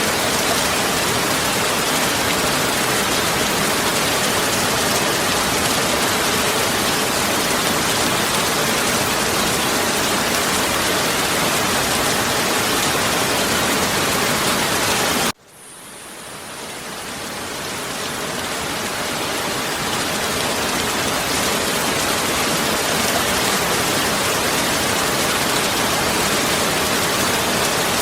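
Heavy rain falling steadily, an even, full hiss. About halfway through it cuts out abruptly and fades back up over several seconds.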